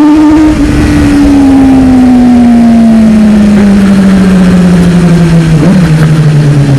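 Sport motorcycle engine heard from the rider's seat: it revs up briefly, then the throttle closes and the engine note falls steadily as the bike slows, with heavy wind noise on the microphone.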